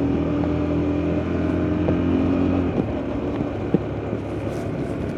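KTM RC390's single-cylinder engine running at steady revs while riding; about halfway through, the steady engine note breaks off into a rougher, unsteady sound with a few sharp ticks.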